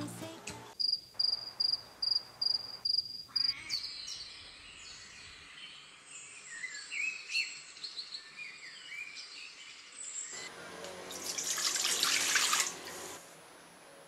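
Small birds chirping: a run of about eight quick, even, high chirps, then varied twittering calls that glide up and down. Near the end a rushing hiss swells for about two seconds and cuts off.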